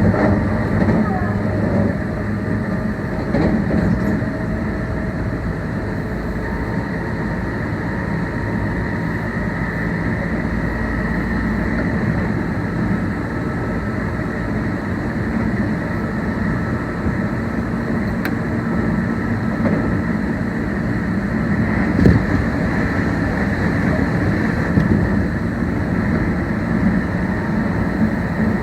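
Running sound of a Meitetsu 1800 series electric train heard from inside the car: a steady rumble of wheels on rail with a motor and gear hum, and one sharp knock about 22 seconds in.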